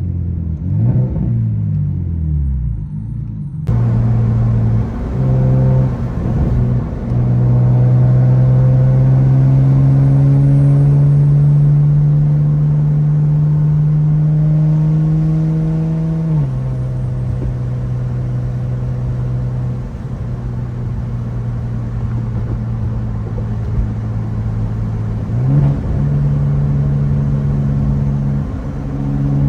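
Single-turbo BMW N54 inline-six engine running under load while driving, its note stepping up a few seconds in and slowly climbing, dropping at about sixteen seconds, and climbing again near the end.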